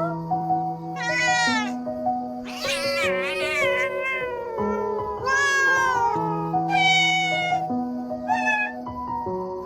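A cat meowing again and again: about six drawn-out meows, each bending up and down in pitch. Under them runs slow background music with long held notes.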